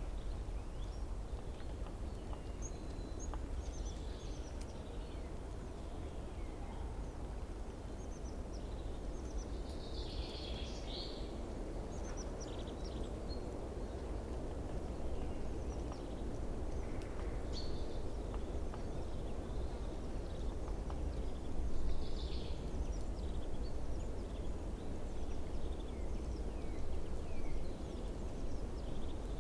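Wild birds chirping: scattered short, high calls, busiest around ten seconds in and again near twenty-two seconds, over a steady low rumble of outdoor background noise.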